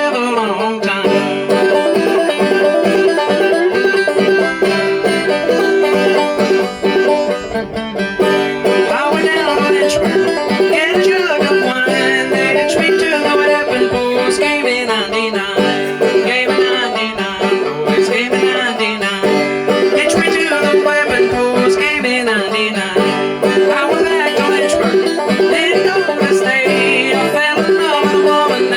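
A banjo played clawhammer style, a steady stream of plucked notes over a held note that rings throughout.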